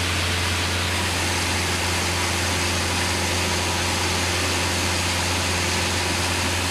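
Steady drone of a single-engine Cessna's piston engine and propeller in cruise flight, with airflow hiss, heard from inside the cabin. A constant low hum sits under an even rush of noise, with no change in pitch or level.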